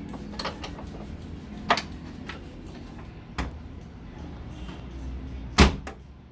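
Knocks and clunks from a car's trunk being worked on, ending in one loud thump near the end.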